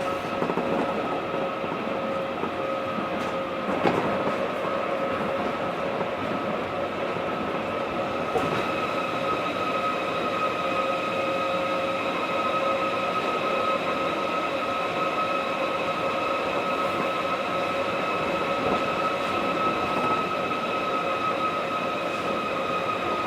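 Osaka Monorail 1000-series train running at steady speed, heard from inside the car: a steady whine of several pitches over the running noise of the tyres on the guideway. A couple of short knocks come about 4 and 8 seconds in, and the whine sinks slightly in pitch near the end.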